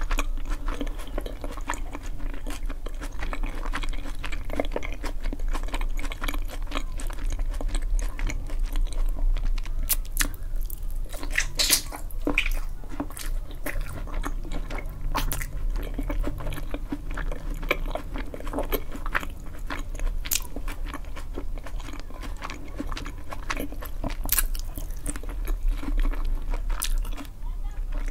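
Close-miked chewing and biting of oven-baked eggplant topped with cheese and tomato, with many small mouth clicks throughout.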